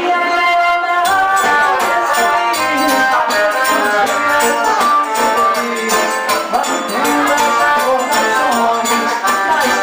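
Live forró band playing: an accordion melody of sustained, shifting chords over a steady, driving beat of zabumba drum and hand percussion, with guitar.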